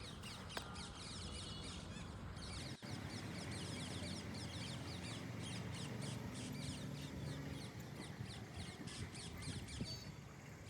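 Parakeets chirping: many quick, short downward-sliding chirps overlapping almost without a break, over a low steady hum.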